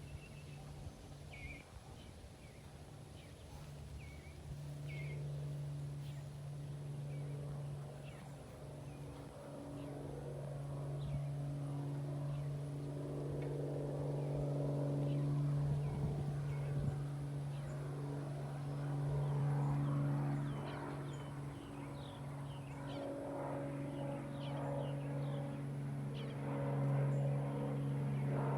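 Short high bird chirps, scattered in ones and twos, over a steady low engine drone that slowly grows louder.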